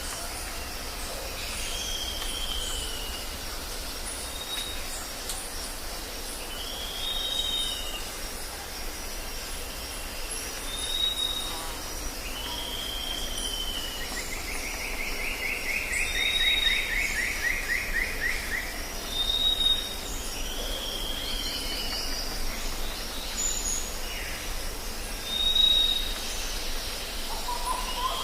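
Jungle birds calling over a steady high insect drone: repeated short arching whistles, with one fast trill sliding slowly down in pitch about halfway through. A low steady rumble sits underneath.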